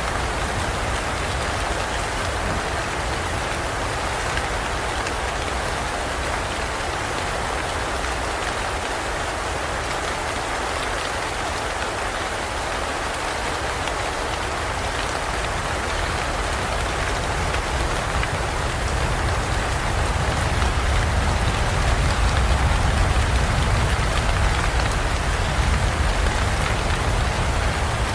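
Rainstorm in a dense forest: steady heavy rain falling on foliage and ground. A low rumble swells in the second half.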